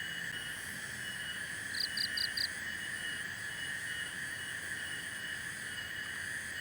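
Forest ambience: a steady high-pitched drone of calling creatures, with a run of four quick, high chirps about two seconds in.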